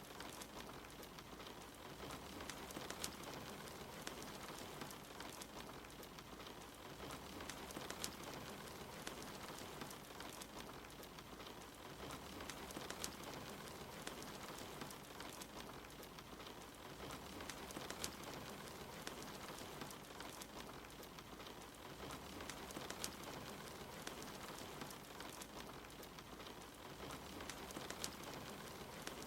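Steady soft rain falling, with scattered small crackles and pops from a wood fire in a fireplace.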